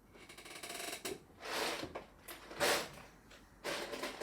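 Small plastic Lego pieces rattling and clattering as hands rummage through them: a fast rattle in the first second, then three short bursts of clatter.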